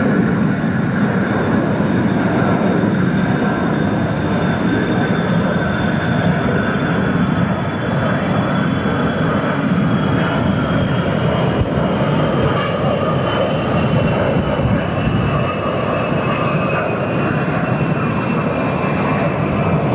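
Jet airliner engines running loud and steady: a deep rumble with a high whine that slowly falls in pitch.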